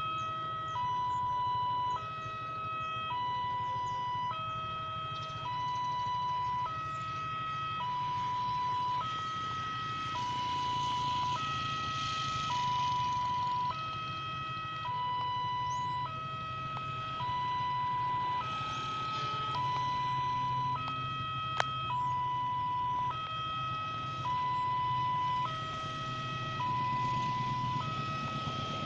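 Railway level-crossing warning alarm sounding, warning of an approaching train: an electronic signal that alternates between a lower and a higher tone about every three-quarters of a second, repeating steadily. A low steady hum lies underneath, and there is one sharp click about two-thirds of the way through.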